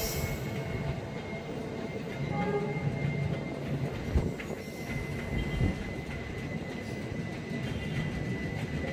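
Long-distance passenger train's cars rolling slowly past, a steady rumble of steel wheels on rail with a faint steady high tone over it. Two sharp knocks stand out, about four seconds and five and a half seconds in.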